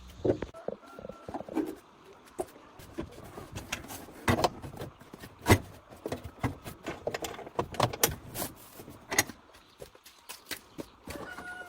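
Irregular sharp clicks and knocks of hand tools and metal parts being handled, with the loudest knock about five and a half seconds in.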